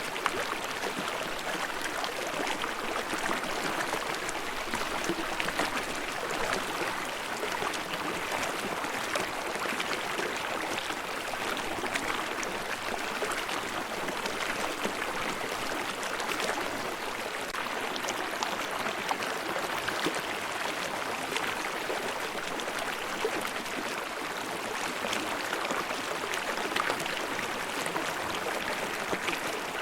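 Shallow mountain stream babbling and splashing over rocks, a steady rushing water sound with small irregular gurgles.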